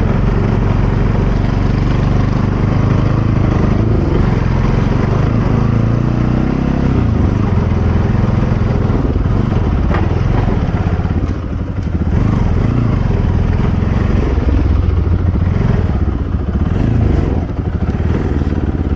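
Bajaj Pulsar NS200 single-cylinder motorcycle engine running steadily while riding, with a brief easing of the engine about eleven seconds in.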